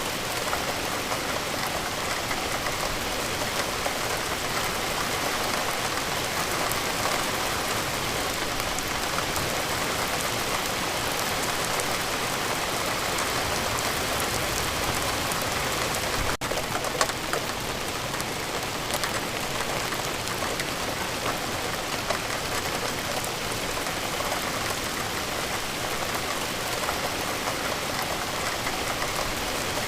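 Steady rain falling, an even hiss dotted with many individual drops ticking close by. There is a brief drop-out about sixteen seconds in.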